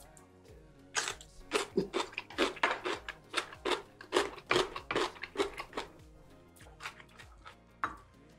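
Close-miked crunching of a mouthful of crisp radish kimchi (seokbakji), rhythmic bites about three or four a second for about five seconds, over quiet background music. A couple of sharp clicks come near the end.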